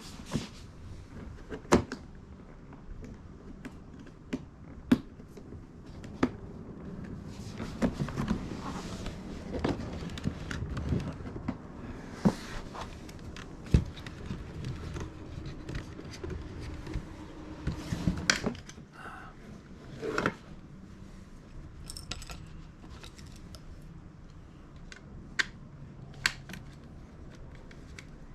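Hand tools and plastic trim being worked on a car door panel: scattered sharp clicks and knocks, with a busier stretch of handling and rustling about a third of the way in.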